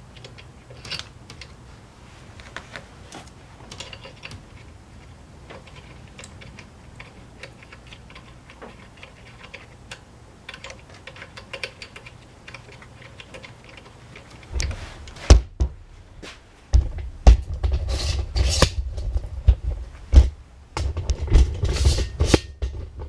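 Scattered light clicks and taps of small parts being handled while fitting the carburetor and throttle linkage of a Honda UMK-422 trimmer. About two-thirds of the way in, louder knocks and a low rumble take over.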